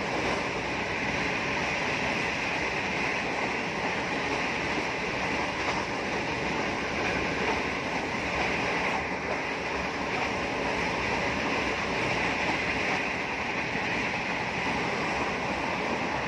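Passenger train running along the line: a steady rushing noise of wheels on the track and passing air, with no pauses or sudden changes.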